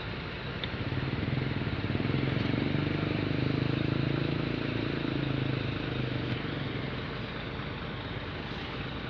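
Diesel engine of an Isuzu Forward rescue crane truck running with a steady low hum, growing louder for a few seconds about a second and a half in, then easing off.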